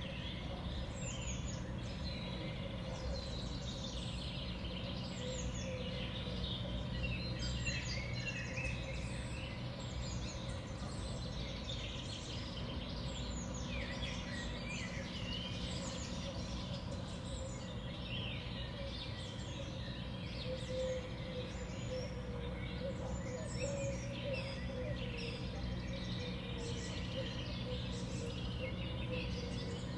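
Small songbirds calling, a steady scatter of short, high, falling chirps and twitters from several birds at once, over a steady hum.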